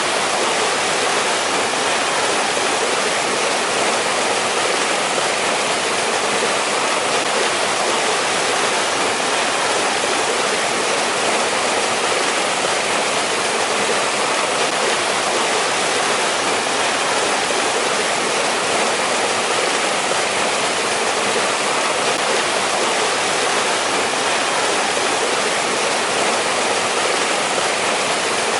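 Mountain valley stream rushing over rocks in winter: a steady, unbroken rush of water.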